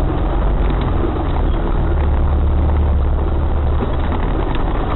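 Off-road vehicle engine running steadily while driving, a low rumble with road and drivetrain noise.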